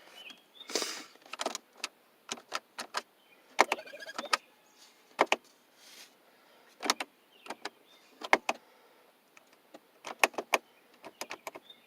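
1994 Oldsmobile 88's starter solenoid clicking with each turn of the key: a series of sharp single clicks, some in quick runs, with no cranking. The starter never turns the engine over, a no-crank fault that the owner suspects may be a hydrolocked engine.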